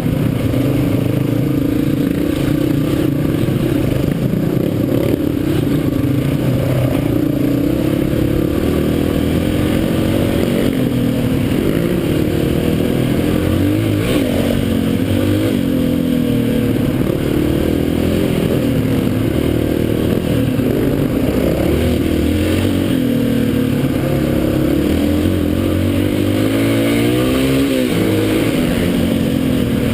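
Dirt bike engine running with the throttle constantly opened and eased, its pitch rising and falling again and again, with a sharp climb in revs near the end.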